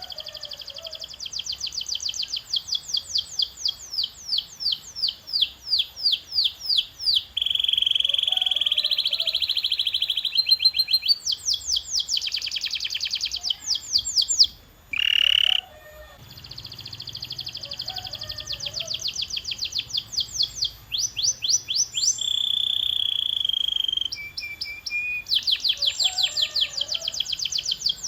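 Domestic canary singing a long song of rapid repeated-note phrases: quick rolls of identical chirps, several a second, switching every few seconds to a different trill or a buzzy rattle, with a brief break about halfway through.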